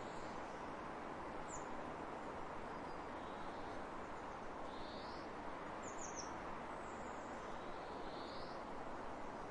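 Birds calling over a steady hiss of outdoor ambience, likely wind across the fields: a soft call repeats every couple of seconds, with a few short high chirps, three in quick succession about six seconds in.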